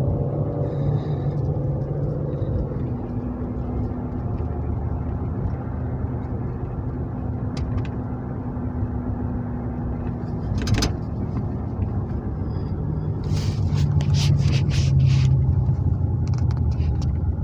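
Police car driving, heard from inside the cabin: a steady low engine and road rumble, with a sharp click about two-thirds of the way in and a quick run of clicks and rattles near the end.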